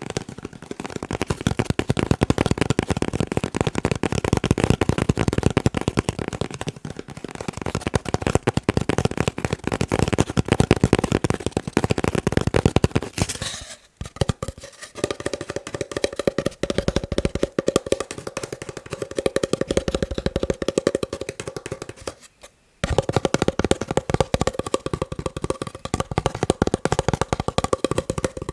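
Fast, continuous tapping on a paper roll, a dense stream of quick taps that stops briefly about halfway and again about three-quarters through. In the second half the taps carry a faint ringing tone.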